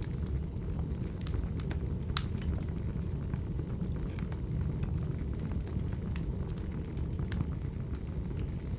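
Firewood burning: a steady low rumble of flames with scattered sharp crackles and pops, the loudest about two seconds in.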